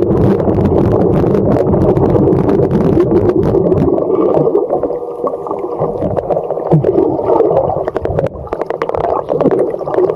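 Malibu V-drive ski boat running at speed on the water, a loud steady rush of engine and water, with crackling gusts of wind noise; it eases off a little about halfway through.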